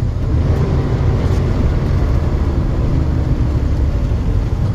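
A truck driving along, its engine and road noise making a steady low rumble.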